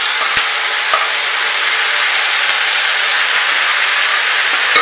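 Cooked beef curry poured into hot coconut oil and curry leaves in a frying pan, its liquid sizzling loudly and steadily as it hits the oil.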